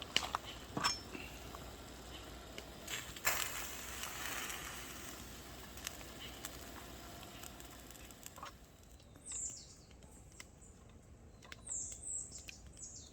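Small birds chirping in short, quickly falling high calls through the last few seconds, over a soft steady hiss with scattered light clicks and knocks earlier on.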